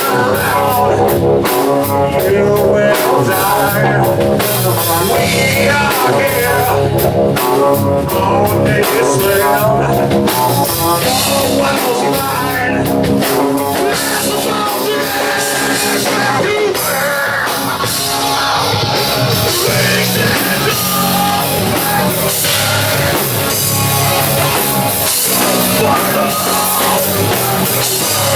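Live rock band playing loud and steady, with electric guitar, bass and drum kit.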